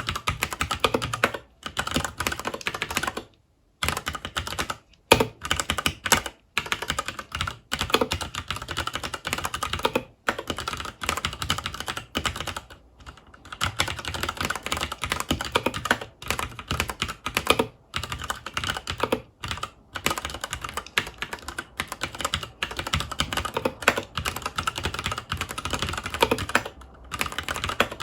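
Continuous fast typing on a FILCO Majestouch 2 Hakua tenkeyless mechanical keyboard with Cherry MX Brown tactile switches, a dense run of key clacks broken by a few brief pauses.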